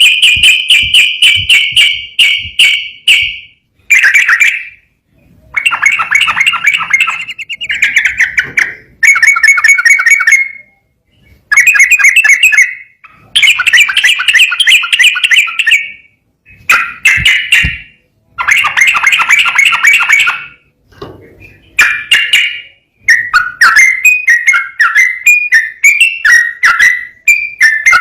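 Yellow-vented bulbul (trucukan) singing loudly in its long, continuous 'ropel' style: phrases of rapid, evenly repeated chattering notes, each lasting one to three seconds with short pauses between. Toward the end the notes turn quicker and jump up and down in pitch.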